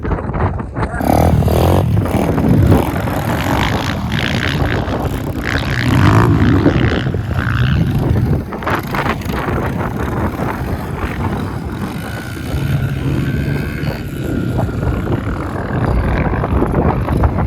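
Pit bike engine running and revving up and down as the bike is ridden.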